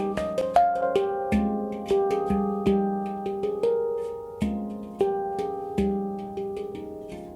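F minor steel handpan played by hand: a flowing run of struck notes, each with a sharp tap and a long ringing tone, low notes sounding under quicker higher ones.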